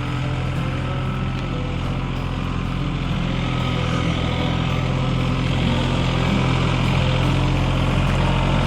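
A motor vehicle's engine running with a steady hum, growing slightly louder.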